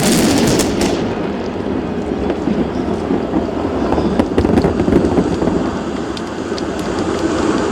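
Fireworks going off in a dense, continuous crackle over low rumbling booms, with a flurry of sharp cracks in the first second and scattered single cracks after.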